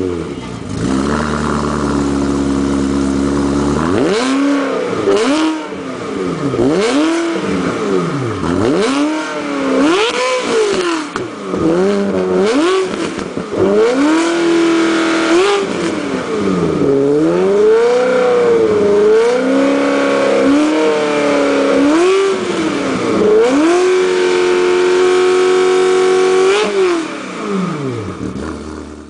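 Exotic sports car engine idling briefly, then revved over and over in quick blips that rise and fall, with a couple of revs held for a few seconds before it drops back to idle near the end.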